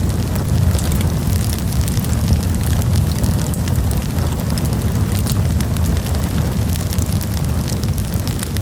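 Wood campfire burning with a steady low rumble of flames and frequent small crackles and pops.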